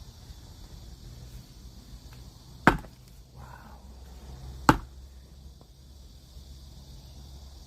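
An axe striking a log twice, about two seconds apart, each a sharp single chop.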